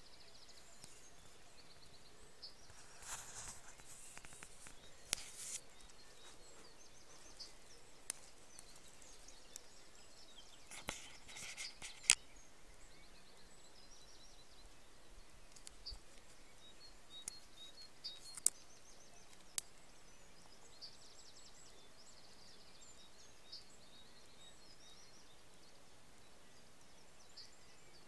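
Quiet countryside ambience with small birds chirping and trilling faintly at intervals. A few sharp clicks and two brief bursts of rustling stand out above it, the loudest click about twelve seconds in.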